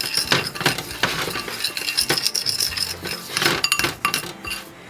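A utensil stirring oil and seasoning together in a bowl, with irregular clinks and scrapes against the bowl.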